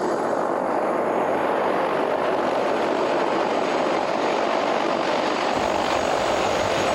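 Steady helicopter rotor and engine drone heard from inside the cabin in flight, with a deeper low rumble joining about five and a half seconds in.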